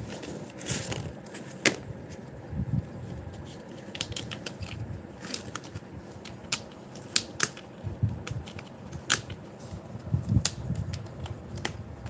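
A cat pawing and clawing at something, making irregular sharp clicks and taps with soft thumps in between.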